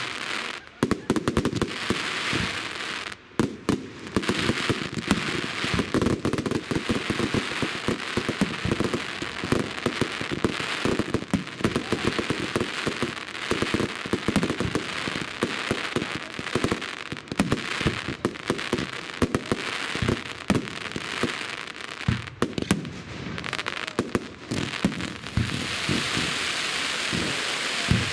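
Fireworks display: a dense run of sharp bangs and crackles from shells bursting, packed closely together, with a steadier fizzing crackle near the end.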